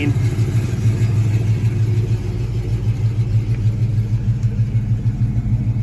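1970 Dodge Charger's V8, warmed up, idling steadily through headers and true dual exhaust, with an even low pulse.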